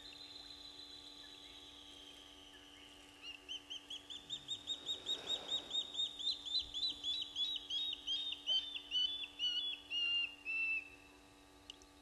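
A bird calling in whistles. A long, slowly falling whistle comes first. A few seconds in, a run of short whistled notes starts, about four a second, growing louder and ending in a few longer, drawn-out notes. A faint steady hum runs underneath.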